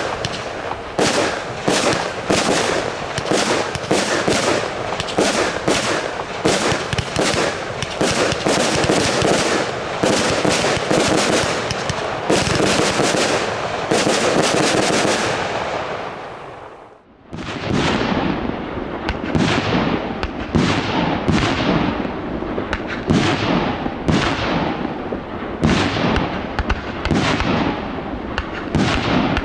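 A 100-shot F3 compound fireworks cake firing, a fast stream of launch shots and crackling bursts. About 17 seconds in the firing stops for a moment, then a new sequence of separate shots starts.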